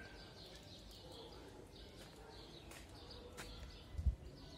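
Small birds chirping over and over in short high notes, with a brief low thump about four seconds in.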